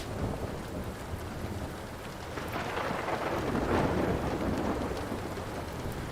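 Steady rain with a roll of thunder that swells about halfway through, is loudest a little later, then fades away. A few faint pops of a wood fire crackling sound over it.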